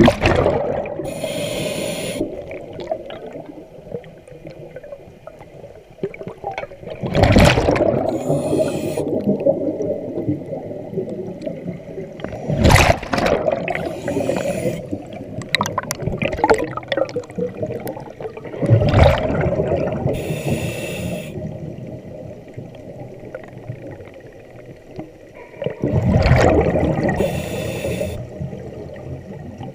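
A scuba diver breathing through a regulator underwater: five breaths about six seconds apart, each a loud burst of exhaled bubbles paired with a short hiss from the regulator.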